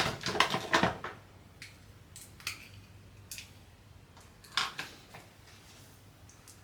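Clatter and clicks of small hard objects being handled, busiest in the first second, then a few scattered single clicks and a short clatter about four and a half seconds in.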